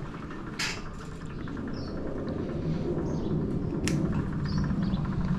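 An engine running steadily and growing gradually louder, with a few short bird chirps over it.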